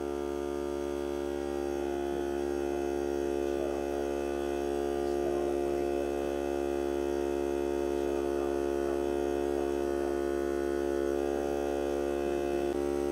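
Hart cordless battery-powered air compressor running steadily, a constant motor hum with a stack of tones, pumping up air pressure.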